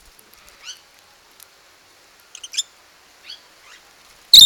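Lovebirds calling with a few short, high, rising chirps spaced apart. Near the end comes one sudden, very loud, harsh burst close to the microphone.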